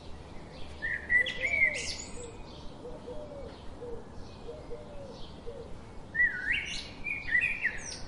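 Songbird singing: a quick phrase of high chirps and trills about a second in and another about six seconds in, with a run of softer, lower short notes between them over a faint steady hiss.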